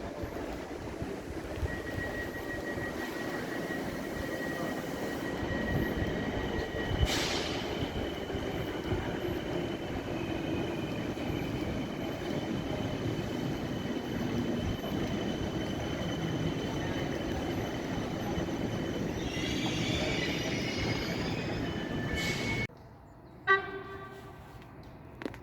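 A passenger train running along the track: a steady rolling rumble of wheels on rail, with faint high whines running through it and a sharp clack about a third of the way in. Near the end it cuts off abruptly to a much quieter background with a single knock.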